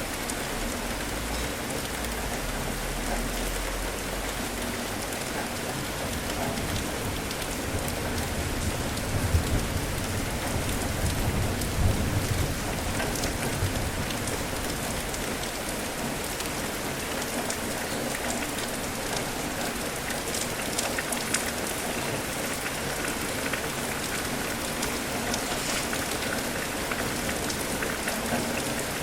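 Steady heavy rain falling on a surface, with a low rumble of thunder swelling about nine seconds in and dying away a few seconds later.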